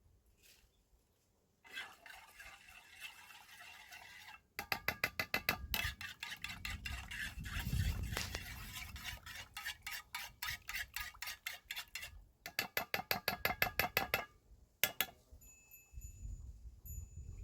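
Metal utensil striking rapidly against a metal pot or bowl, about five clinking strokes a second, in two long runs with a short pause between them.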